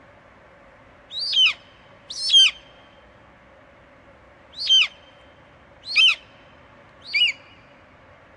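An eagle calling: five short, high screeches, each falling in pitch, two close together and then three about a second apart, over a steady faint hiss.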